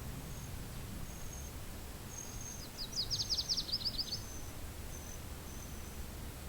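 A small songbird sings a quick trill of about a dozen falling notes about three seconds in. Under it runs a low wind rumble, with short, thin high-pitched notes repeating every half second or so.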